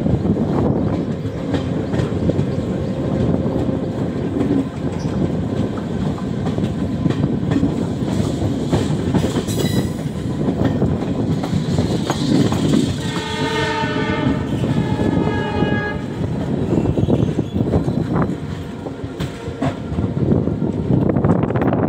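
Passenger train running at speed, heard from on board: a steady rumble of wheels on rails. A little past the middle a train horn sounds for about three seconds.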